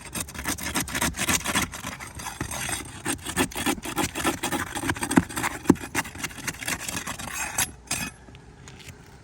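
Rapid scraping and rubbing against asphalt roof shingles, many quick strokes with a few sharper clicks, stopping about eight seconds in.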